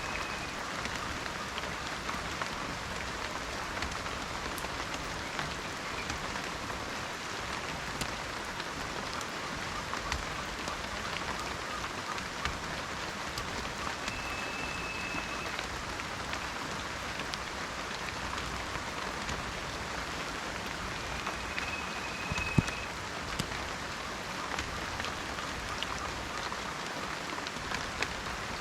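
Steady rain falling in a forest, a continuous hiss with many individual drops ticking close by and one sharper drop hit about three quarters of the way through. A short, thin high tone sounds twice in the middle.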